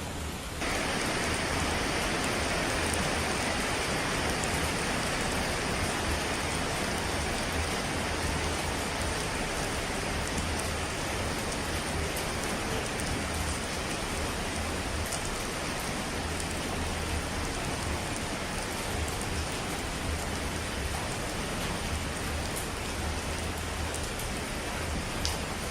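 Steady heavy rain falling on a surface, an even wash of noise with a few faint drop ticks. It steps up louder and brighter about half a second in, then holds steady.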